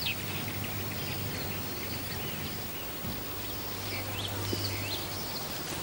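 Background ambience with a few faint, scattered bird chirps over a low, steady hum.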